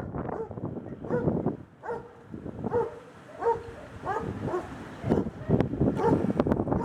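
A dog barking repeatedly, a short call about every half second to a second, over gusty wind rumbling on the microphone.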